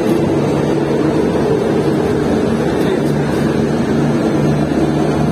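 Steady rumble of an LHB passenger coach running on the rails with air rushing past the open door, as the train pulls in along the station platform.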